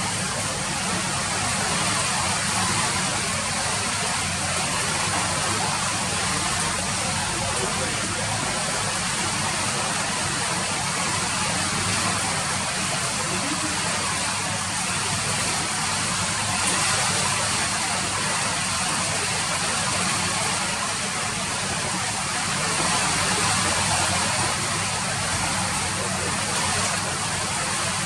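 Steady rain falling, an even hiss with no let-up or change.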